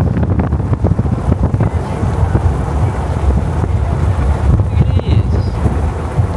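Wind buffeting the microphone: a loud, low, fluttering rumble.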